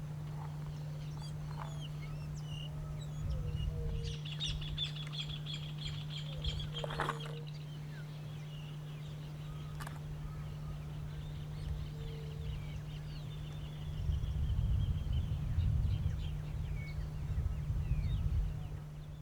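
Wild birds calling in a field recording: high, rapid chattering trills come and go, with short low whistled notes and a couple of sharp clicks. A steady low hum and a low rumble run underneath.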